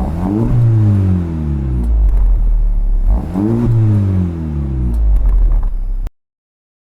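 Exhaust of a Honda Civic Type R FL5's 2.0-litre turbocharged four-cylinder engine revved twice, each rev climbing quickly and then falling back slowly toward idle. The sound cuts off abruptly about six seconds in.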